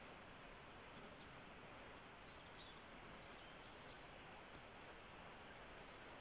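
Near silence: a faint steady hiss, with small birds giving short, high chirps in little clusters every second or two.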